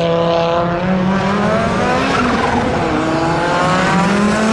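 Classic rally car engine under hard acceleration, revs climbing, falling back about two seconds in, then climbing again.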